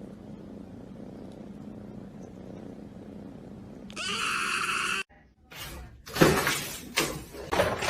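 An animal's drawn-out cry about four seconds in, lasting about a second at a steady pitch. Near the end come loud, noisy clattering crashes like something falling and breaking.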